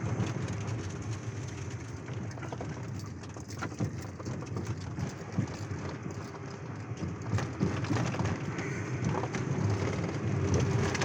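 Car on the move: a steady rumble of road and engine noise with scattered clicks and knocks throughout.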